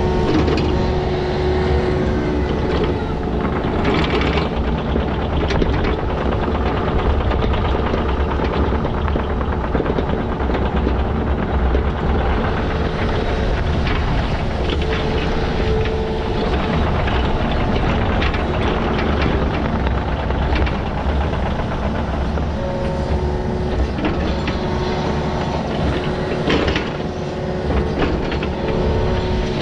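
Heavy digging machine's engine running steadily, with a few short knocks about 4 seconds in and again near the end.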